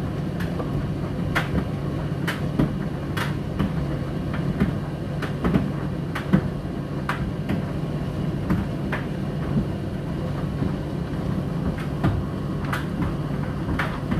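Indesit IDC8T3 condenser tumble dryer running: a steady motor and drum hum, with irregular clicks and knocks, roughly one or two a second, as the load tumbles in the drum.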